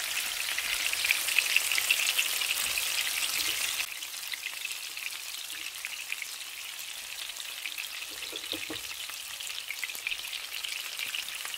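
Chicken patties frying in butter and olive oil in a skillet: a steady crackling sizzle of spitting fat, which drops noticeably quieter about four seconds in.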